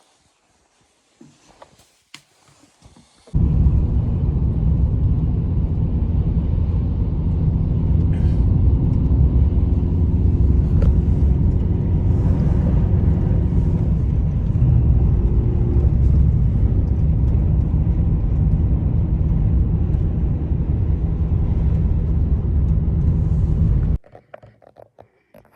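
An engine running steadily: a loud, constant low rumble with a hum, cutting in abruptly about three seconds in and cutting off abruptly near the end.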